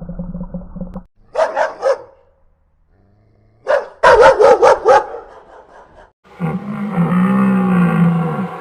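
Dog barking: a quick cluster of barks, then a single bark and a rapid run of barks. After about six seconds a long, lower, wavering call of another animal begins.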